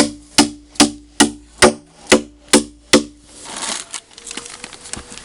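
A steady series of sharp knocks, about two and a half a second, each with a short ringing tone, eight in all. They stop about three seconds in, followed by a brief rustle.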